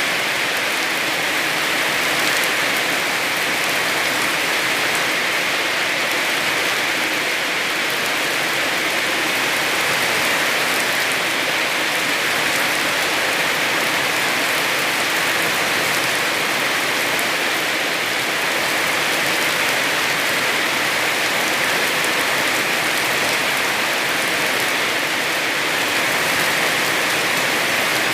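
Heavy rain falling steadily on surfaces, an even hiss with no let-up or single drops standing out.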